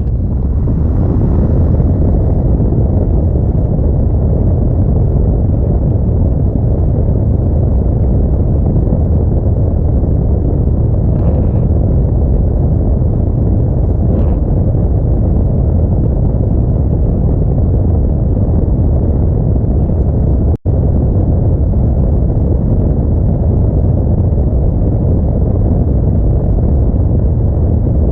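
Steady low rumble of an Audi A4 driving on a snowy road: road and wind noise on the GoPro. It cuts out for an instant about 20 seconds in.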